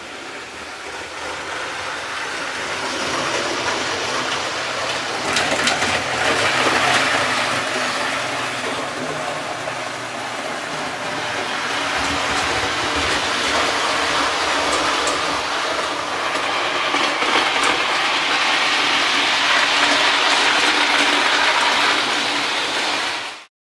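OO gauge model Class 47 diesel locomotive running along the layout's track, growing louder twice as it comes close, then cut off suddenly near the end.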